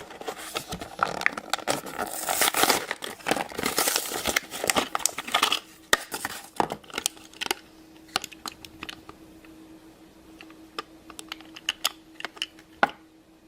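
Plastic blister packaging of a diecast toy car crinkling and crackling as it is handled, thinning about halfway through to scattered sharp clicks and taps.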